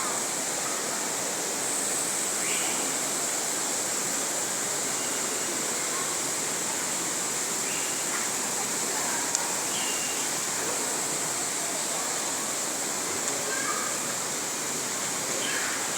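Steady rush of falling water, with a few short, high bird chirps scattered through it.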